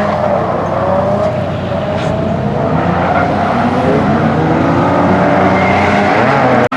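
Drift car engines revving up and down through a run, their pitch rising and falling, with tyre noise underneath.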